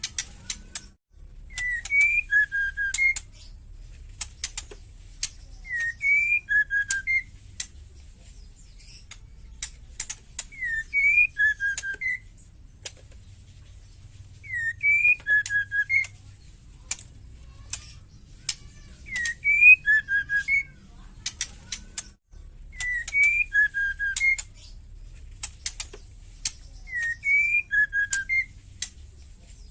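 Female white-rumped shama calling: a short whistled phrase, one rising note followed by two or three lower notes, repeated about every four seconds, with sharp dry clicking (ketrekan) in between.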